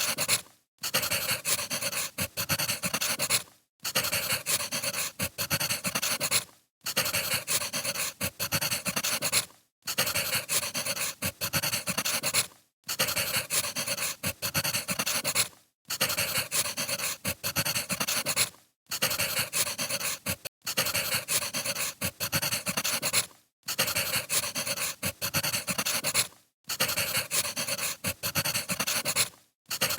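Wood fire crackling: a dense run of small pops and crackles, broken by brief silent gaps about every three seconds.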